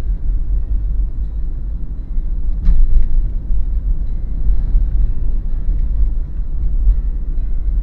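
Daihatsu Terios SUV driving along, a steady low rumble of engine and road, with a single sharp knock about two and a half seconds in.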